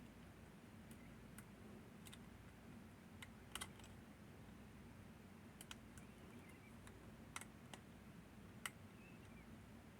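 Faint, irregular metallic clicks from picking a Northern Telecom NE-22 six-lever lock: the lever pick and tension tool ticking against the levers inside the lock. The clicks come singly and in pairs, the loudest a double click about a third of the way in and another near the end.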